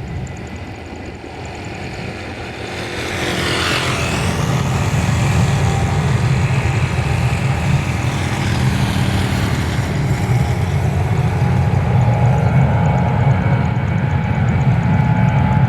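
Jet airliner passing close by. Its high engine whine sweeps quickly down in pitch about three to four seconds in as it goes past. A loud, steady low rumble of jet noise then carries on.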